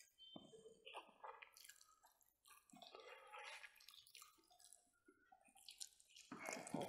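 Faint, close-up mouth sounds of people eating smoked pork ribs by hand: wet chewing and lip-smacking in short, irregular clicks and squelches, louder near the end.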